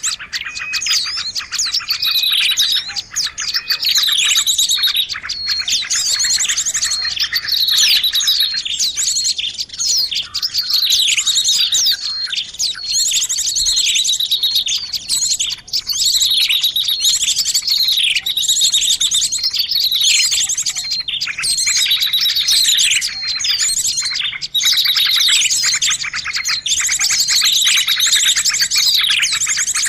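A dense, busy chorus of small birds chirping and twittering all at once, as used in a bird-lure track. Fast high trills run under repeated downward-sliding chirps that come every second or two.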